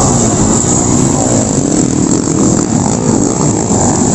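Underbone motorcycle engines revving and easing off, their pitch gliding up and down, loud and continuous.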